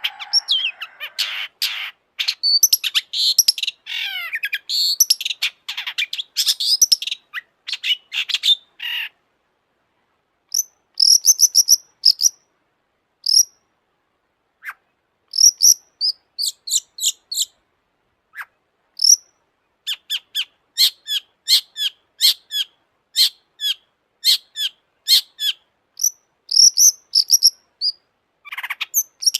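Long-tailed shrike (cendet) singing. It opens with a dense run of varied, rasping song with quick glides for about nine seconds. After a short pause come scattered high notes, then a string of sharp, high repeated notes at about two a second.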